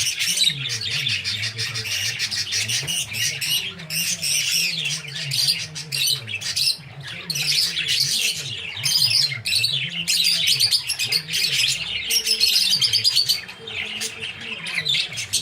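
Pet birds chirping and chattering, with many quick calls overlapping.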